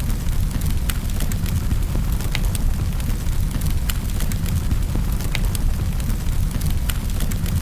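Wood fire crackling in a fireplace: a steady low rumble of burning with irregular sharp crackles and pops, a few each second.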